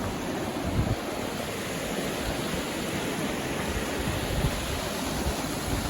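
Steady rushing of a waterfall, the lower falls of a clear mountain creek, with an uneven low rumble beneath it.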